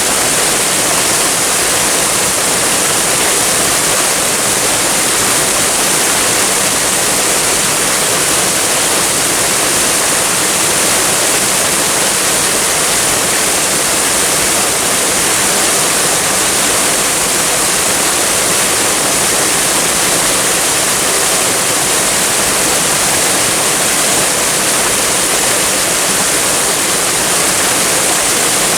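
Waterfall: steady, even rushing of falling water with no breaks or changes.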